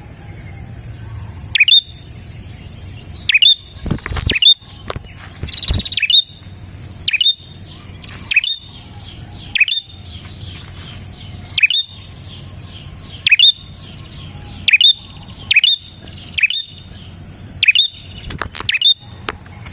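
Prinia (prenjak) calling over and over, a short sharp chirp that sweeps upward, roughly once a second. Loud clicks come about four and six seconds in and near the end.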